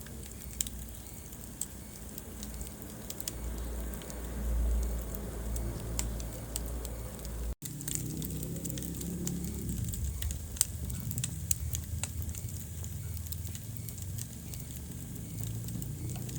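Wood fire burning in a fireplace, with irregular sharp crackles and pops over a steady hiss of flames and a low rumble. The sound breaks off for an instant about halfway through, then carries on.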